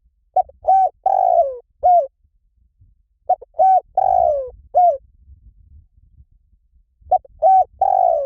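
Spotted dove cooing: a repeated phrase of four notes, the third drawn out and falling in pitch, given twice, with a third phrase starting near the end.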